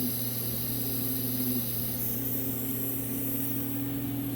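Vacuum checker running steadily on a 200-4R transmission pump, a constant hum with air hissing, its tone shifting slightly about two seconds in. The test is pulling only low vacuum, the sign of leakage past a worn pressure regulator valve bore.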